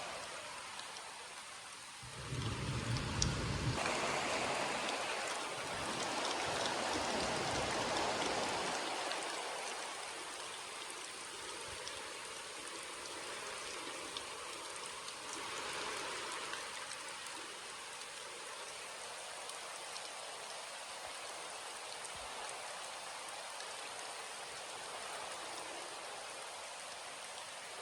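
Steady rain falling, an even dense patter of drops, with a louder swell carrying a low rumble from about two to nine seconds in.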